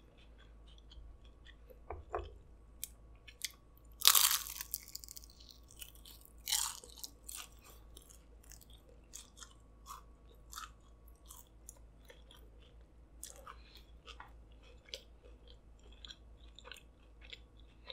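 A person biting into and chewing a crispy fried piece of food close to the microphone. There is a loud crunching bite about four seconds in and another about two and a half seconds later, then chewing with many small crunchy crackles.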